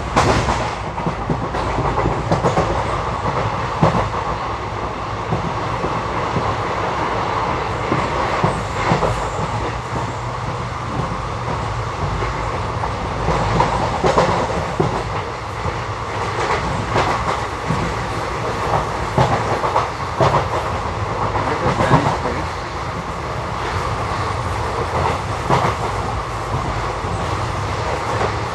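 Passenger express train running along the track, with a steady rumble and hiss of the coach and irregular clickety-clack of the wheels over rail joints.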